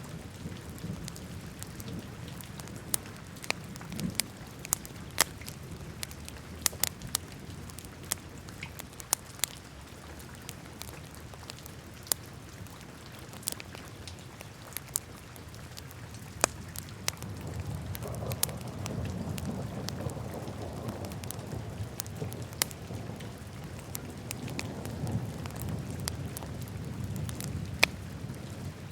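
Wood fire burning in a fireplace: irregular sharp crackles and pops over a steady low rustle of flames. The flame rumble swells twice in the second half.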